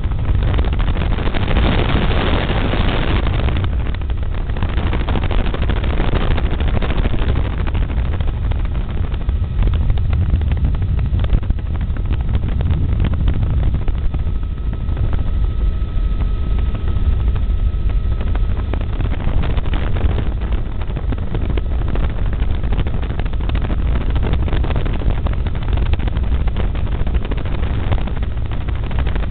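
Helicopter in flight: loud, steady rotor and engine drone, heaviest in the low end, with wind rushing over the microphone that swells in waves.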